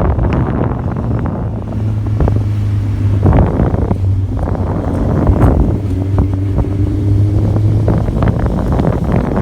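Quad bike fitted with a Honda CBR600F2 inline-four motorcycle engine running at speed, its steady engine note half buried under heavy wind buffeting on the microphone.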